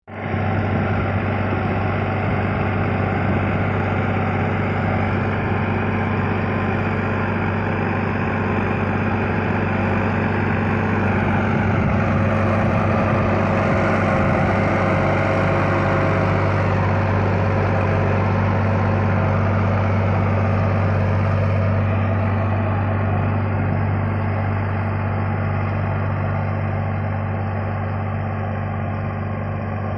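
Sonalika 35 DI tractor's diesel engine running steadily at high revs while pulling a cultivator buried deep in the soil. The engine note shifts slightly about twelve seconds in.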